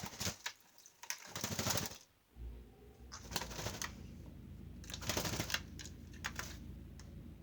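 White-bellied caique bathing in a dish of water, fluttering its wings to splash in several short bursts.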